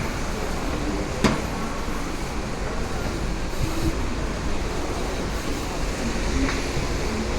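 Steady low rumble and hiss of a train at a railway station platform, with one sharp knock about a second in and a fainter one near the end.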